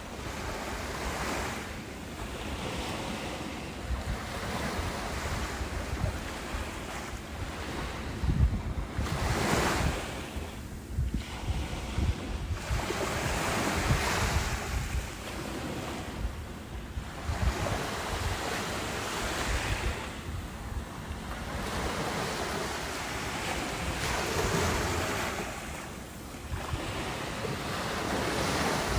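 Ocean waves breaking and washing ashore, the surf swelling and falling back every three to four seconds, under a low rumble of wind on the microphone.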